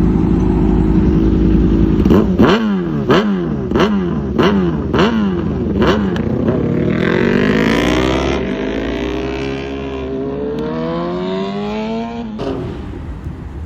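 Car engine idling, then revved sharply about eight times in quick succession, about two revs a second. It then pulls away in a long rising acceleration that grows fainter and cuts off shortly before the end.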